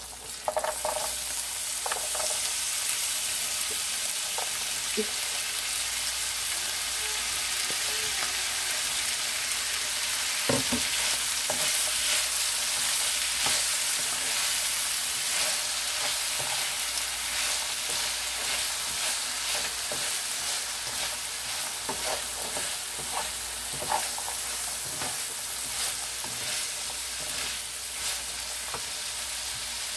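Diced raw potatoes sizzling in hot longaniza grease in a frying pan, the sizzle swelling about half a second in as the potatoes go in. A slotted spatula scrapes and stirs them, with short clicks and knocks against the pan.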